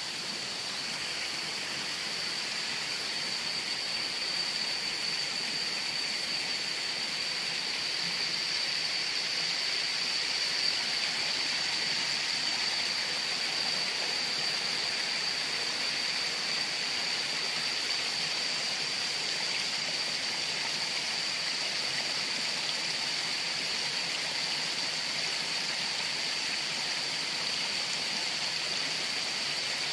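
Waterfall water rushing in a steady, unbroken hiss, with a thin high tone running through it.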